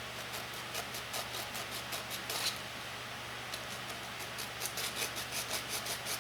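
Quick, short scraping strokes at about four to five a second, pausing briefly in the middle, over a steady low hum.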